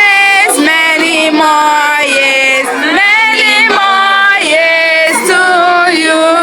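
A group of children and women singing a birthday song together, with long held notes.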